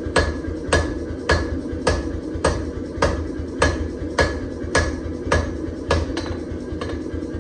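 Hammer blows forging a damascus steel billet, struck at an even pace of a little under two a second, each with a short metallic ring, over a steady low rumble.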